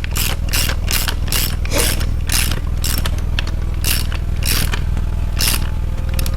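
Socket ratchet clicking in quick repeated strokes, about two or three a second, as a rocker arm nut on a Chevy 350 small-block is turned during pushrod and rocker setup. A steady low hum runs underneath.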